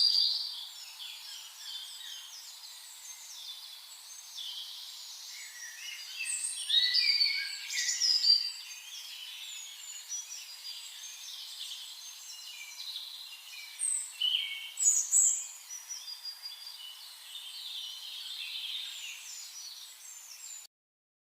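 Several songbirds chirping and singing over one another, with short, high trills and calls and a few louder calls near the middle and later on. The sound cuts off abruptly near the end.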